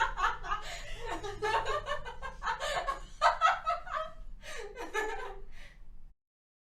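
A woman laughing in repeated snickering bursts, breaking off suddenly about six seconds in.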